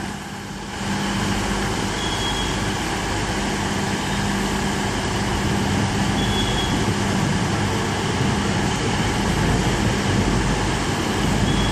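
Class 43 HST power car's diesel engine running with a steady drone and hum, stepping up a little under a second in. Three brief faint high squeaks come through over it.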